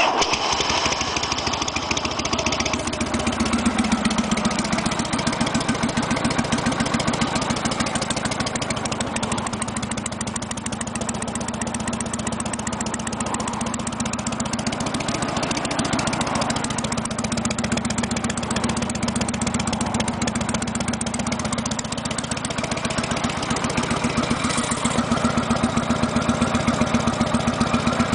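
1974 Harley-Davidson FXE 1200 Super Glide's Shovelhead V-twin engine catching and settling into a steady, pulsing idle. It picks up slightly louder in the last few seconds.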